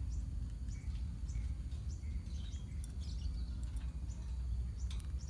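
A colony of lovebirds chattering: many short, high chirps and squeaks overlapping, over a steady low rumble.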